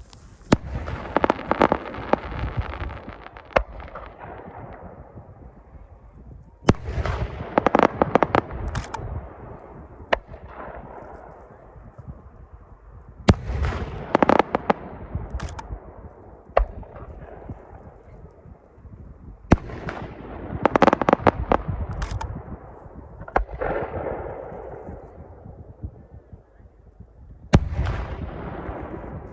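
Aerial fireworks shells bursting in volleys. Each volley is several sharp bangs with crackling, then a fading rumbling echo, and a new volley comes about every six or seven seconds.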